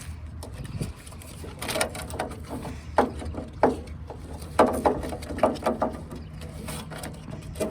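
Taillight wiring harness being fished through a small hole in the sheet metal: plastic connectors and wire rubbing and catching on the hole's edge in a string of short squeaks and scrapes, the loudest about three to six seconds in.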